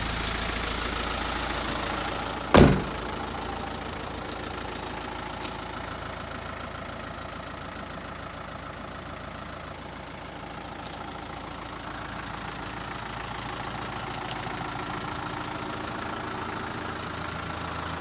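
Mitsubishi Rosa bus's 4D33 four-cylinder diesel engine idling steadily, with a single sharp bang about two and a half seconds in. The engine sound dips in the middle and grows louder again toward the end.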